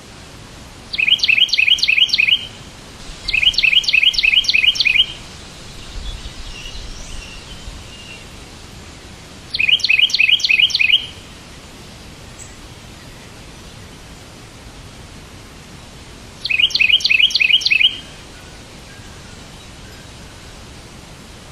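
A songbird sings four short phrases, each a quick run of six or seven repeated high notes lasting about a second and a half, with a few faint softer chirps between them. A steady hiss runs underneath.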